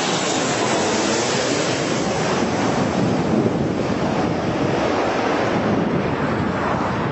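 Loud, steady rush of a large jet airliner's engines passing close by, mixed with strong wind buffeting the microphone; the higher hiss fades toward the end as the aircraft draws away.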